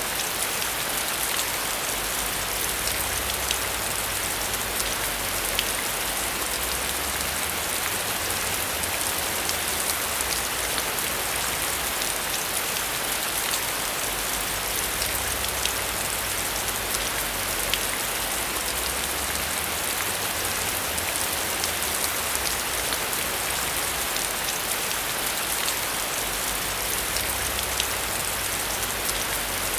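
Steady heavy rain: a continuous hiss with many sharp drop ticks scattered through it.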